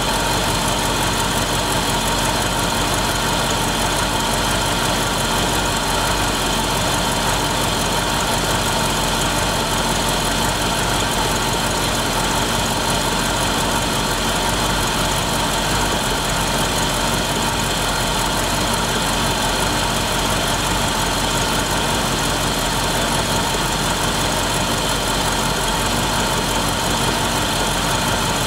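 Mercedes-Benz petrol V8 idling steadily on a cold start, an engine only now running again after standing unused for years.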